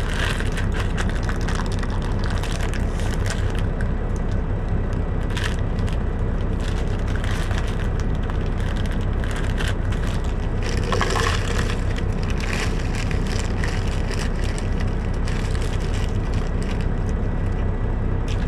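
Plastic bag crinkling and rustling, with small clicks and clatters from fruit pieces being handled out of the bag, over a steady low hum.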